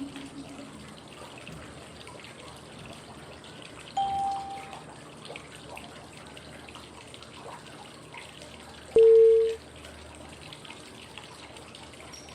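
Steady flowing-water white noise with two short pitched cue tones five seconds apart: a higher one about four seconds in and a lower, louder one about nine seconds in. The tones mark the changes between the five-second inhale, hold and exhale of 5-5-5 breathing.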